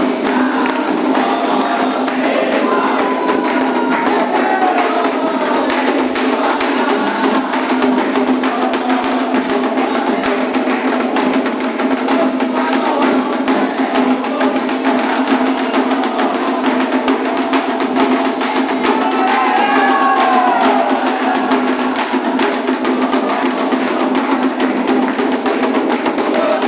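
Candomblé ritual music: continuous, fast hand drumming and percussion with a woody clacking beat, and voices singing now and then.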